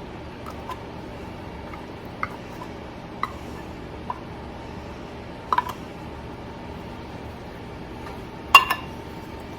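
Light clinks of a kitchen utensil against a bowl and can, scattered every second or so, while green chiles go in with the cream cheese and chicken. Near the end comes a louder double clink that rings briefly.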